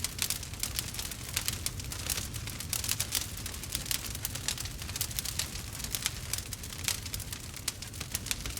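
Burning wood fire crackling, with many quick irregular pops and snaps over a steady low rumble of the flames.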